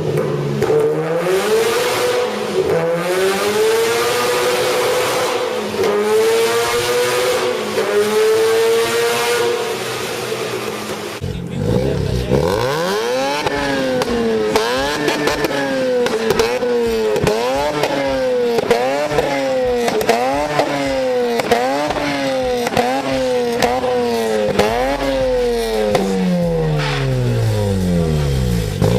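Mazda RX-8 rotary engine running at high revs with a wavering pitch and a hiss over it. After a cut, it is blipped repeatedly, the pitch climbing and dropping about once a second. Near the end it revs and falls away.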